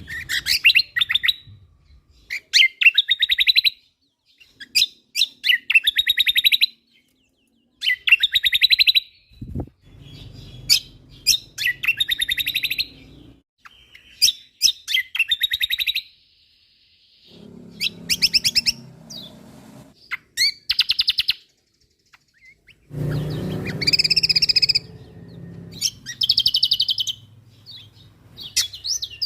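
Kecial kombok songbird singing a full, varied song in repeated bursts of one to two seconds of fast chattering trills and sharp high notes, with short pauses between the bursts.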